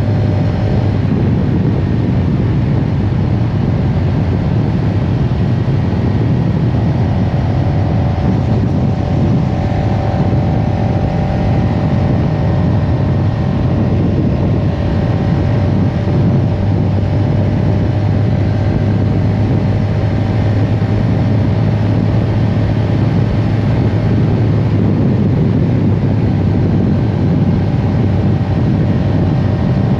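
CFMoto CL-X 700 Heritage motorcycle's parallel-twin engine running at steady, nearly unchanging revs while riding.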